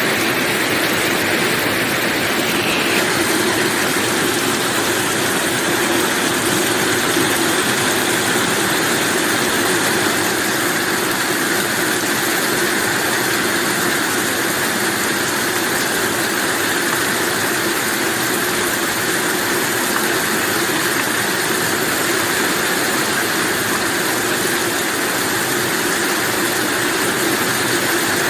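Heavy rain falling steadily, an even hiss that stays level throughout.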